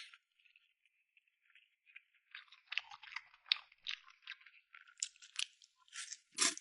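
Close-miked chewing and crunching of food in the mouth: a string of short wet clicks and crunches, sparse at first and growing busier and louder from about two seconds in.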